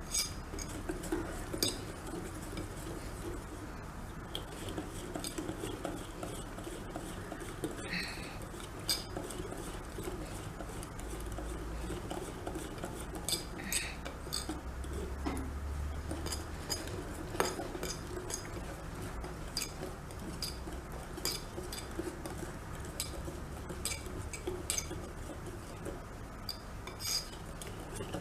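A utensil stirring thick chocolate cake batter in a bowl: a steady swishing scrape with frequent light, irregular clinks against the bowl.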